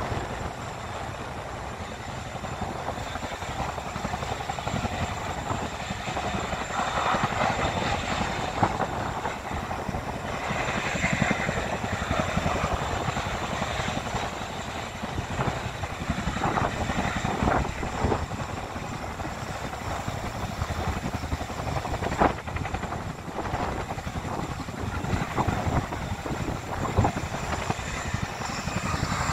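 Military helicopter running steadily with a low, fluttering rotor noise, with a sharp click about two-thirds of the way through.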